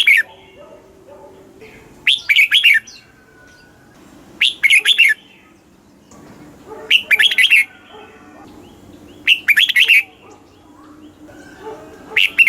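Red-whiskered bulbul singing short, quick phrases of several bright notes, one phrase about every two and a half seconds.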